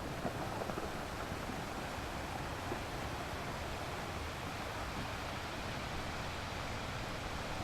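Steady wash of sea surf, with a low rumble of wind on the microphone.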